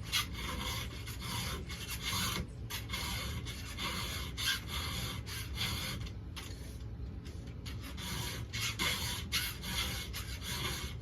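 A 7/32 round file sharpening chainsaw chain cutters by hand, rasping in a steady series of short push strokes separated by brief pauses.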